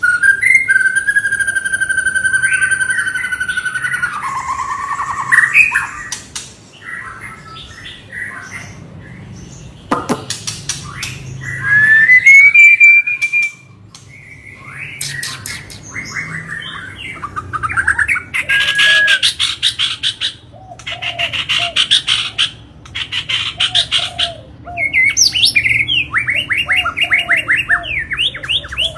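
A white-rumped shama (murai batu) singing a long, varied song: a held whistle at the start, a rising glide partway through, and fast runs of repeated notes near the end.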